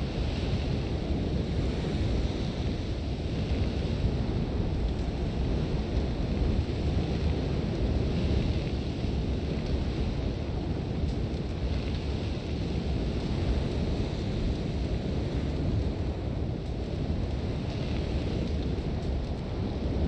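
Sandstorm wind blowing hard and steadily with a deep rumble, and a hiss of blowing sand that swells and fades every few seconds.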